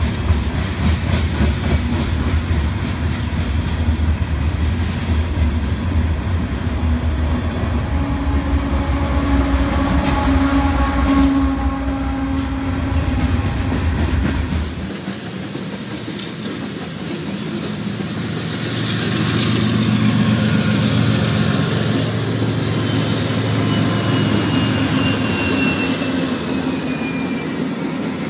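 Freight trains passing close by: wheels clacking over rail joints under a line of covered hopper cars, with a deep rumble that drops away suddenly about halfway. In the second half, six-axle Norfolk Southern diesel locomotives run past, with a thinner, steady sound.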